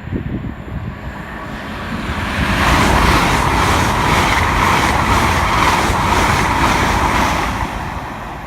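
LNER Class 800 Azuma train passing at speed: a rush of wheel and air noise that swells from about two seconds in, holds with a fast regular beat of the wheels, and fades near the end.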